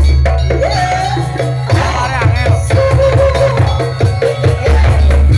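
Jaranan folk music played loud: drums and percussion under a wavering melodic line, with a heavy bass.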